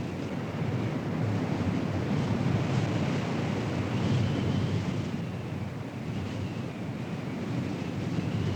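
Strong wind rushing and buffeting the microphone, swelling and easing, with a faint high wavering tone.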